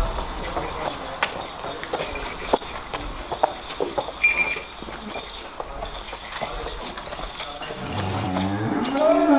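A cow moos once near the end, its call rising in pitch, over a steady high drone of insects with scattered light clicks.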